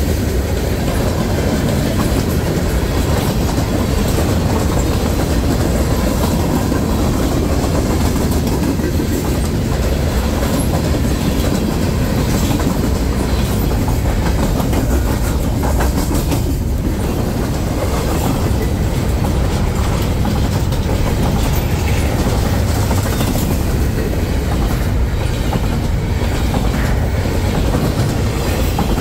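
Freight train cars rolling past with a steady, loud rumble of wheels on the rails.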